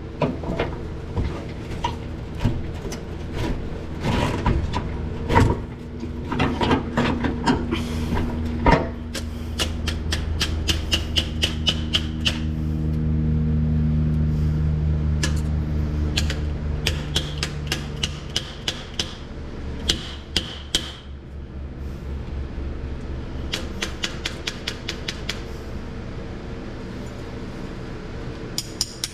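Hand tools working rusted bolts on an old truck's front end. A few sharp metal knocks come first, then runs of rapid, evenly spaced clicking, with a steady mechanical hum through the middle stretch.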